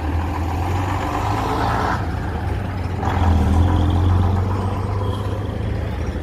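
Vintage bus's diesel engine running close by, a low steady drone that grows louder about three seconds in and eases off again after about four and a half seconds.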